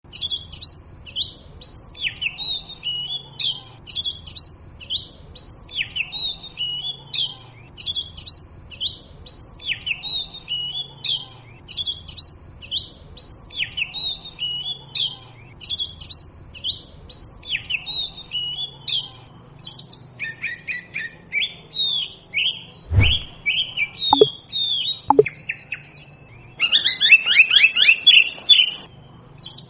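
Oriental magpie robin singing: a short phrase of clear, high, gliding whistles repeated about every two seconds. About two-thirds through it switches to more varied notes, then to a fast run of rapid chattering notes near the end.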